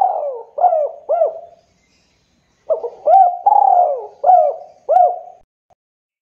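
Spotted dove (tekukur) cooing. A phrase of arched coos trails off, then after about a second's pause a second full phrase of about five coos follows, ending about two-thirds of the way through.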